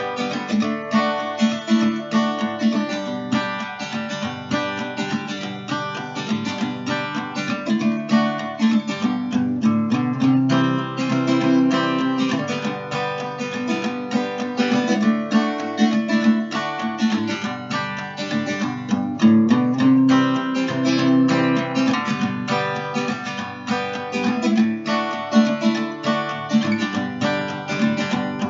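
Background music: acoustic guitar played with plucking and strumming.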